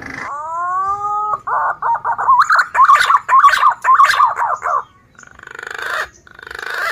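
Male punai daun green pigeon calling: a rising whistle, then a fast run of warbling whistled notes. A buzzy, pulsing sound follows after about five seconds and grows louder.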